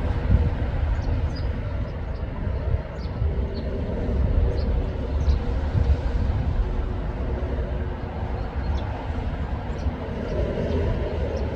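A steady low rumbling noise, with faint short high-pitched bird chirps scattered through it.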